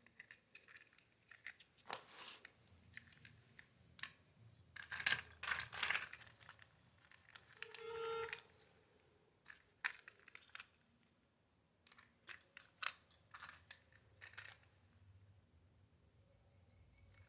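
Small toy trucks being handled, clattering and rattling in irregular bursts of light clicks, with a short pitched tone about eight seconds in.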